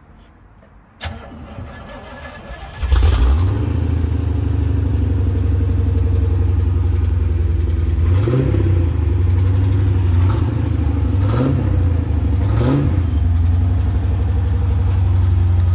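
Chevrolet Corvette C4 V8 being started: the starter cranks for about two seconds, then the engine catches with a loud rise about three seconds in and settles into a steady idle through the exhaust. It is given three short throttle blips partway through.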